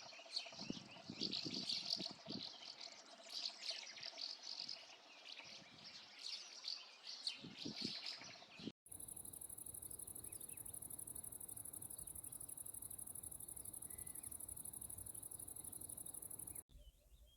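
Several small birds singing and chirping together for about nine seconds. Then, after an abrupt cut, a steady, high-pitched, rapidly pulsing insect trill, like crickets, for about eight seconds.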